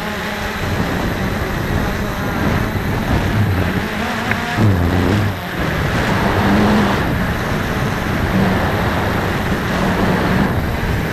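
Strong wind buffeting the microphone: a loud, continuous rumbling rush that swells and dips irregularly.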